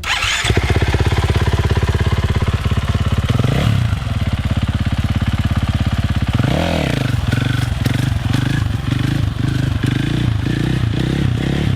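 Dirt bike engine running close by and revved for a wheelie attempt: the pitch rises and falls about three seconds in and again about halfway, then surges rhythmically with quick throttle blips near the end.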